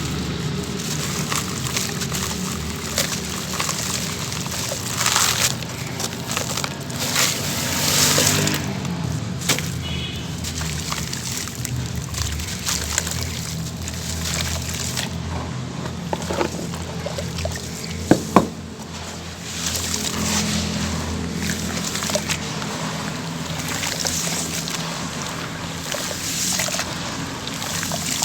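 Grainy sand-cement chunks crumbling and breaking apart in water, with sloshing and pouring, and a couple of sharp cracks about two-thirds of the way through. Steady background music plays underneath.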